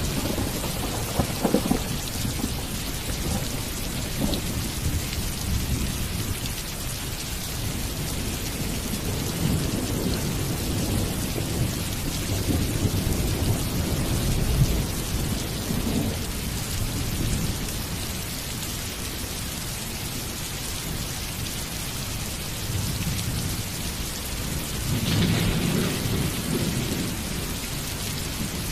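Steady rain falling, with thunder rumbling low in the background and swelling a few times: near the start, around the middle and again near the end.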